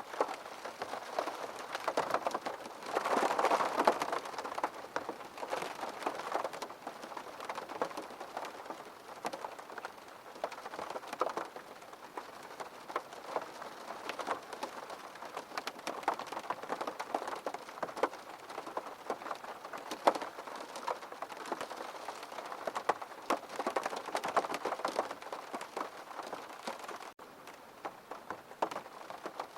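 Steady rain falling on a surface, with many individual drops ticking through it and a brief heavier swell about three seconds in.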